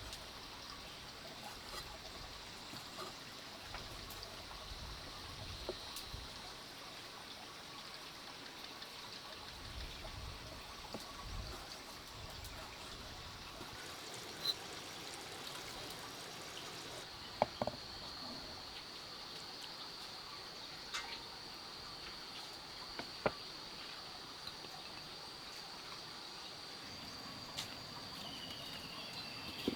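A steady high insect drone over a faint, even, trickling-water-like hiss, with a few sharp clicks or knocks in the second half.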